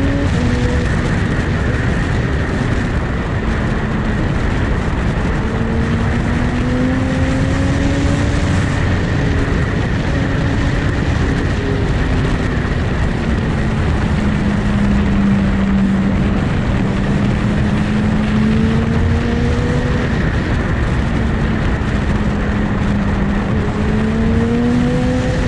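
Sport motorcycle engine running at speed under a steady rush of noise, its note slowly rising and falling as the throttle changes.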